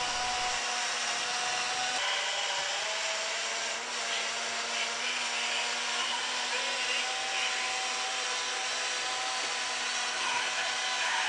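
Jakks Pacific Max Tow Truck's electric drive motor and gearbox running steadily, a whirring hum with a few held whining tones.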